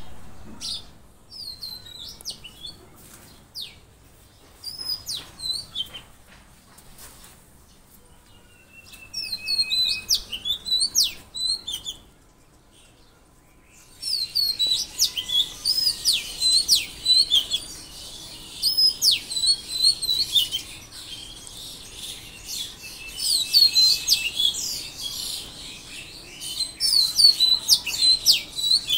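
Songbirds chirping and calling in short, quick high phrases, scattered at first, with a brief lull about halfway through, then many birds chirping densely together.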